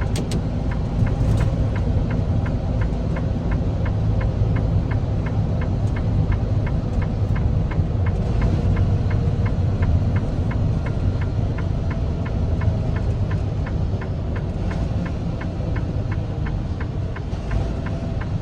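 Steady engine and road rumble heard inside a semi truck's cab while driving, with a light, even ticking of about two to three clicks a second running throughout.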